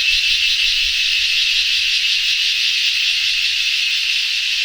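Cicada calling at close range: a loud, steady, high-pitched buzz with a fine rapid pulsing.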